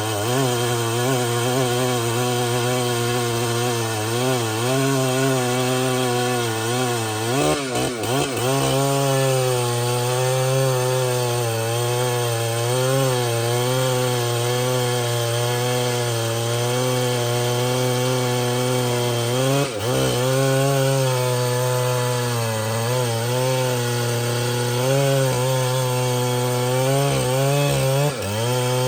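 Large two-stroke chainsaw running at high speed under load, cutting through trembesi (rain tree) wood. The engine note wavers up and down as the cut loads it, with brief dips about a quarter of the way in, about two thirds in and near the end.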